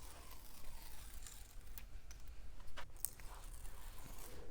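Backing paper being peeled off the sticky adhesive strips of an armrest cover, a faint tearing crackle with a few sharper crackles partway through.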